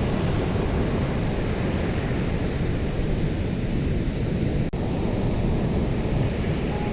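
Ocean surf: a steady, deep rush of waves breaking, with no single wave standing out. About two-thirds of the way through there is a brief click and a short dip in level.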